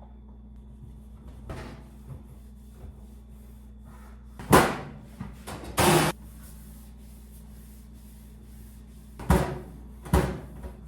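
Five sudden knocks and bumps over a steady low hum, the loudest two in the middle.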